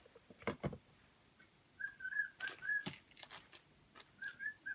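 A bird chirping in short runs of quick, identical whistle-like notes, with a few sharp clicks and taps in between.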